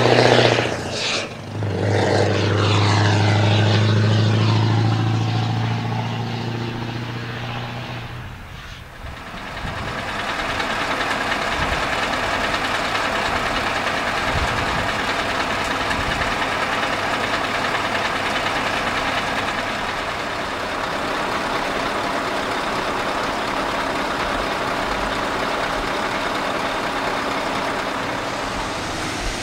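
A Scania V8 truck with straight-pipe exhausts drives past, its deep engine note loud at first and then falling in pitch and fading after about eight seconds. After that, steady engine and rushing road noise carries on evenly.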